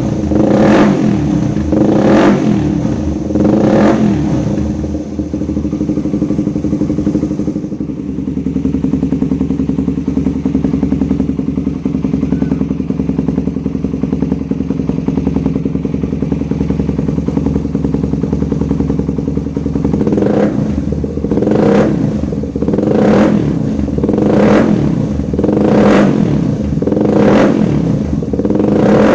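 Suzuki Satria FU's 150 cc single-cylinder four-stroke engine running through a Lone Rider mini-cone trioval aftermarket exhaust: a few quick throttle blips, then a steady idle for about fifteen seconds, then a run of about eight short revs roughly a second apart.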